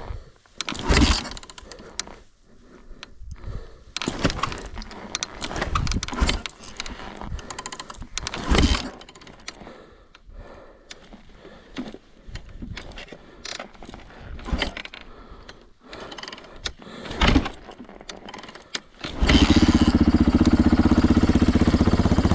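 Yamaha YZ450 four-stroke single-cylinder dirt bike engine, freshly rebuilt, being kick-started. Several kicks and mechanical clatters come without it firing. About 19 seconds in the engine catches and runs loud and steady.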